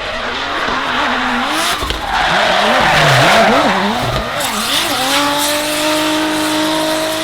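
Drift car's engine revving up and down rapidly through a slide, with a burst of tyre noise on the wet track loudest about three seconds in. After that the engine settles into a steady pull, its note rising slowly.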